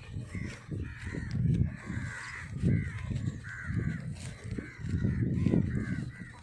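Crows cawing repeatedly, over irregular low thumps and rumble near the microphone.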